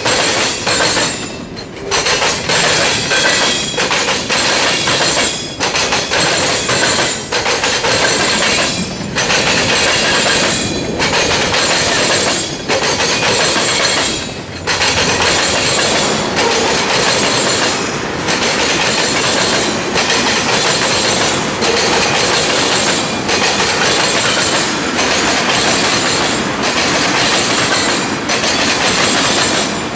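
Freight cars of a mixed freight train rolling past close by: a steady rumble and rattle of steel wheels on rail with clickety-clack, the noise dipping briefly every one and a half to two seconds.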